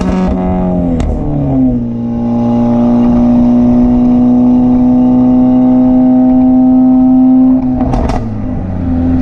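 Straight-piped Mercedes CLA45 AMG's turbocharged 2.0-litre four-cylinder engine running loud under way. The revs drop after a sharp crack about a second in, then hold steady for several seconds, with another crack and a dip and rise in revs near the end.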